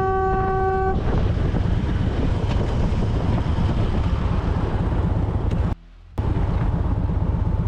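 A vehicle horn held steady that cuts off about a second in, over heavy wind buffeting and motorcycle engine and road noise from a rider's camera. The sound drops out briefly about six seconds in, then the wind and engine noise resume.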